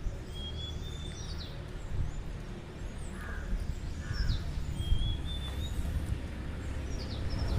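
Birds calling: a short high whistled phrase near the start and again about five seconds in, with a couple of brief harsher calls between, over a steady low background rumble.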